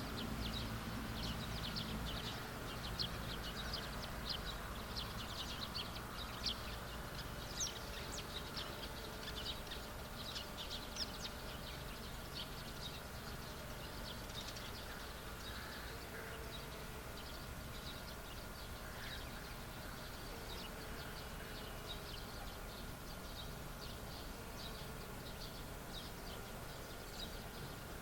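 Birds chirping across an open field: many short, high chirps, busiest in the first half, over a faint outdoor background. A low rumble fades out over the first couple of seconds.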